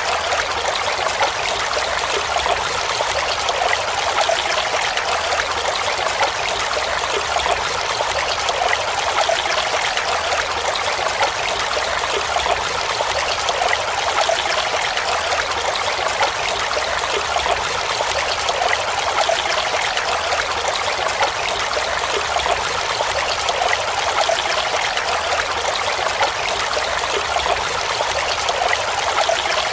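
Mountain stream water running and splashing over rocks, a steady, even rush.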